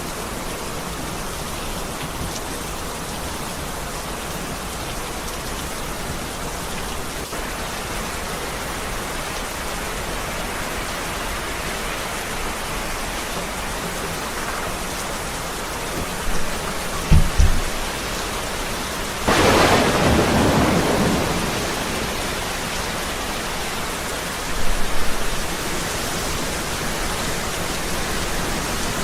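Heavy rain falling steadily, with thunder: short low rumbles a little past the middle, then a sharp, loud clap that fades over a few seconds, and another brief rumble about five seconds later.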